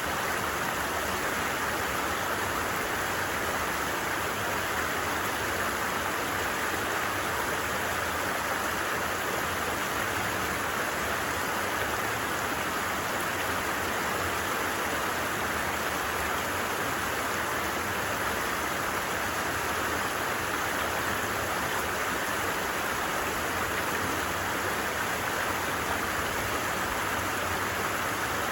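A stream running steadily, with an even rush of water that does not change.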